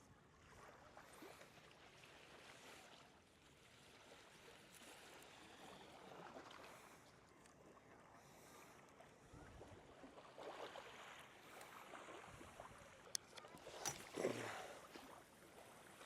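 Faint shoreline ambience, a low even wash of outdoor noise, with a sharp click and a brief louder knock near the end.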